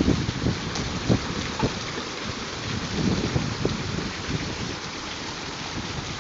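Hail coming down hard: a steady hiss of falling hail with many irregular low thuds of hailstones striking.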